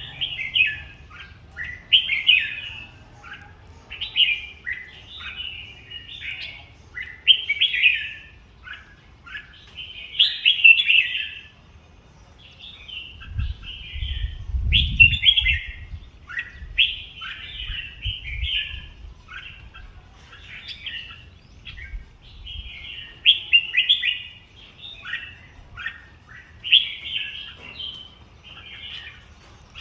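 Sooty-headed bulbul song: short, bubbly chirping phrases repeated over and over with brief gaps, the kind of call played to lure bulbuls to a trap. A low rumble sits under the song in the middle.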